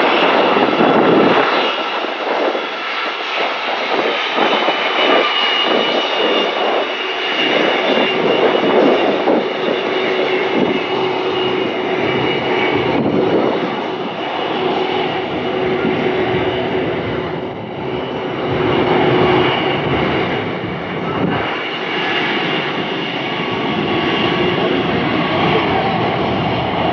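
C-17 Globemaster III's four Pratt & Whitney turbofan engines running at power in reverse thrust as the aircraft backs up on the ground: a loud, steady jet noise with a steady whine in it, rising and falling gently in level.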